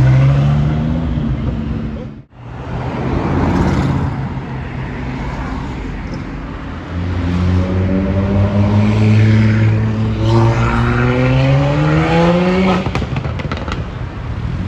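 Sports car engines on a city street. The longest is one engine accelerating, its pitch climbing steadily for about six seconds before it cuts off abruptly near the end, followed by a few sharp cracks.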